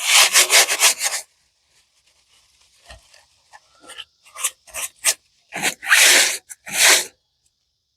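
Hand wire brush scrubbing rust off metal in short, quick strokes: a burst of rapid scrubbing, a pause, then several separate strokes.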